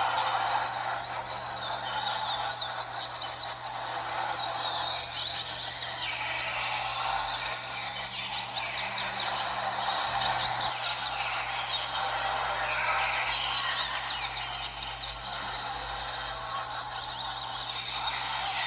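Many coleiros (double-collared seedeaters) singing at once, their quick chirping songs overlapping in a dense, unbroken chorus, with a faint steady hum underneath.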